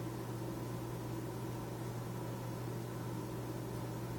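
Steady low electrical hum with fainter buzzing tones above it, unchanging throughout: the strange noise in the house, which the household puts down to a power outage with flickering supply.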